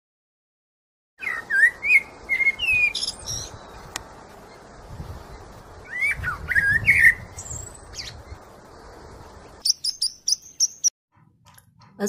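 Birdsong: bird chirps in short bursts of rising and falling notes over a steady hiss, starting about a second in. Near the end there is a quick run of clicks and a short high ringing tone.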